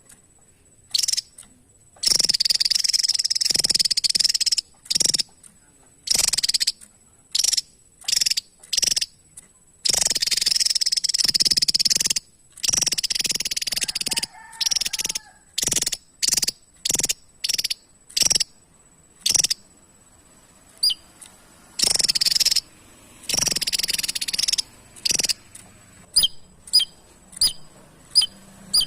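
Javan tesia singing: loud buzzy, rasping song bursts of one to two seconds, broken by many short sharp notes. Near the end the song turns to a quick run of brief chips, about two a second.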